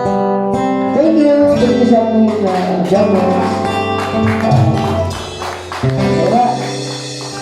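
A small live band playing: a guitar and a tambourine with a voice singing over them.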